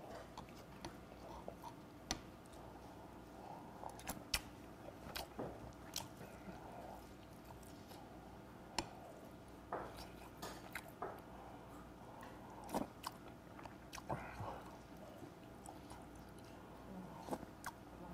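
Close-miked chewing while eating spoonfuls of soup, with many short, sharp clicks and taps scattered throughout over a low room hum.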